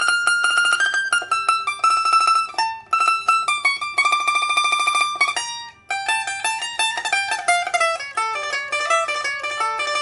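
Solo liuqin, a 2000 Song Guangning rosewood instrument with a steel first string, being played: high notes held with fast tremolo plucking, then after a short break about halfway, a quicker run of single plucked notes. It is a test of the instrument after repair, with new handmade steel frets and a replacement soundboard taken from a 1995 rosewood pipa.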